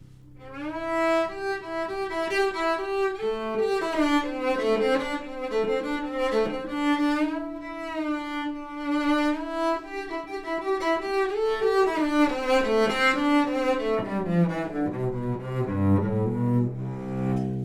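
Cello played with the bow in an instrumental passage of quick, sliding notes. It climbs into a higher register in the middle and drops to low notes in the last few seconds.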